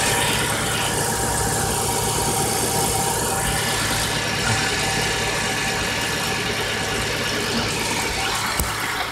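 2001 Acura TL's V6 idling steadily soon after a cold start, with a light knock from low in the engine that only comes when cold and is faint at this moment; others have told the owner it is probably rods knocking. Two short sharp clicks stand out, about four and a half seconds in and near the end.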